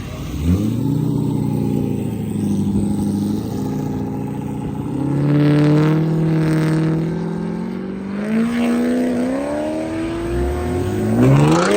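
Car engine and loud exhaust accelerating hard, its pitch climbing sharply about half a second in. It holds, steps up again later and climbs steeply once more near the end.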